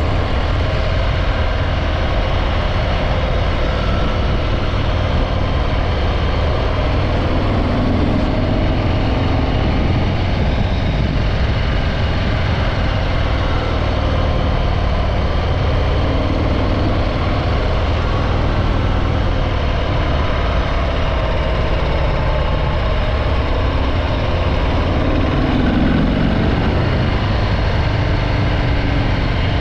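Harley-Davidson Breakout 114's Milwaukee-Eight 114 V-twin running through its stock exhaust, a steady engine note with slight shifts in pitch now and then.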